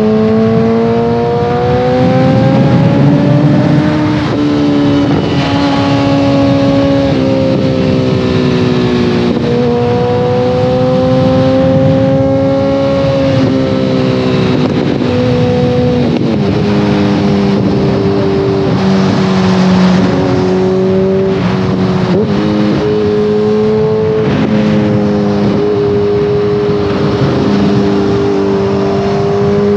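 2014 Kawasaki ZX-14R's inline-four engine through a full Brocks Alien Head 2 exhaust, heard while riding. Its pitch climbs under throttle at the start, then holds and falls with several sudden drops as the rider changes gear.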